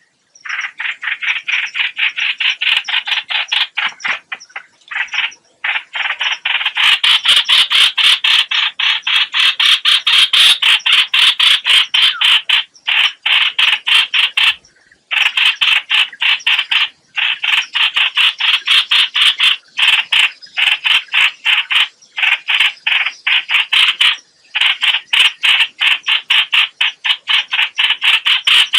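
Rapid, harsh chattering calls of the bird known in Vietnamese as "hoạch hoạch", several short notes a second in long runs broken by brief pauses. It is a recorded lure call of the kind played to draw birds into a trap.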